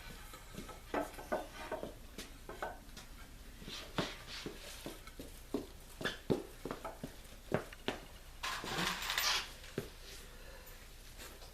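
Workshop handling noise: a string of light knocks and clatters of wood and tools being handled, with a short scraping rustle a little after the middle.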